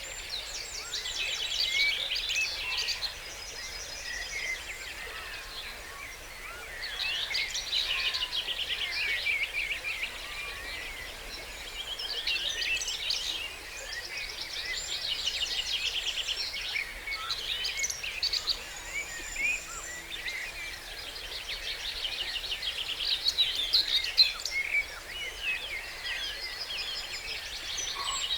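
Dawn chorus of woodland songbirds. One bird repeats a fast, trilling song phrase of two or three seconds every few seconds, while other birds chirp and whistle around it over a steady background hiss of the stream.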